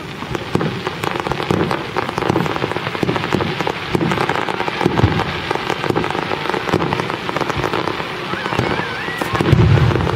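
Aerial fireworks going off: a dense, continuous crackling like heavy rain from crackling-star shells, over repeated low burst thuds, with a stronger thud near the end.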